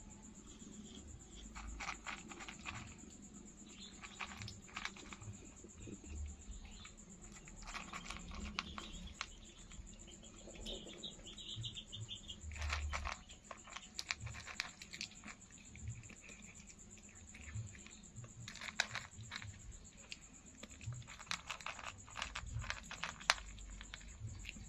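A cat chewing and crunching food, in short bursts of rapid clicks a few seconds apart, over a steady high-pitched whine.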